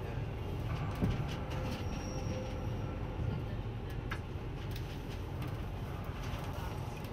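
Rhaetian Railway train running along the track, heard from inside the passenger carriage: a steady low rumble with scattered clicks and rattles, and a faint thin squeal about two seconds in.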